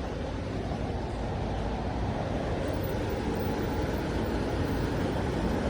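Road traffic noise: a steady low rumble that grows slightly louder.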